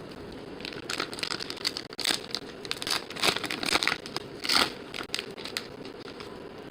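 Foil baseball card pack wrappers being torn open and crinkled: a run of crackling, rustling tears lasting about five seconds, over a steady low background hum.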